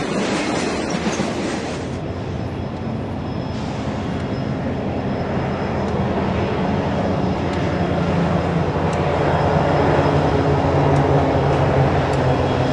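Freight cars rolling past close by with wheel clatter for the first couple of seconds, then the diesel engines of an approaching Union Pacific freight train, a steady low drone that grows louder as the locomotives come on.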